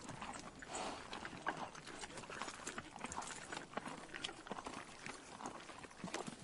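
A horse grazing: irregular, quiet crunching and tearing as it crops and chews grass.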